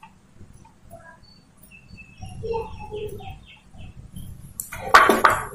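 Birds chirping in the background, a quick run of short high chirps with a few lower notes. Near the end comes a short, loud rustle or scrape.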